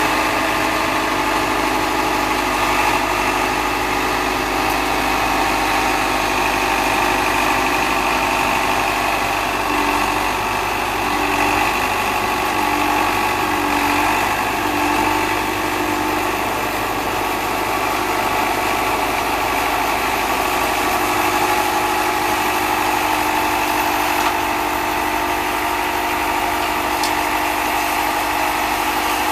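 Case David Brown 1212 tractor's four-cylinder diesel engine running steadily while driving an Erskine 721FM snowblower. The engine pitch dips briefly several times in a row about ten seconds in.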